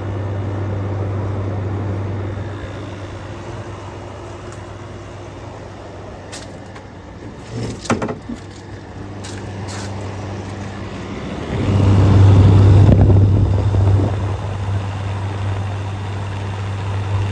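Air conditioners running: a steady low compressor hum with the rush of fan air. The sound grows noticeably louder about twelve seconds in, with a few short knocks around eight seconds in.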